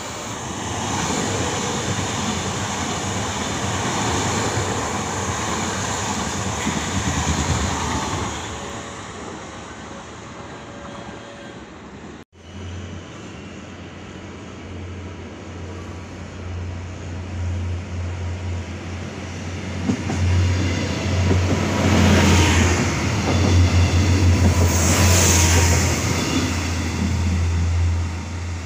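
Electric commuter trains at a station platform. A train runs past for the first several seconds. After a cut, another electric multiple unit approaches and pulls in alongside, with a steady low hum and wheel-on-rail noise that grows loud over the last several seconds.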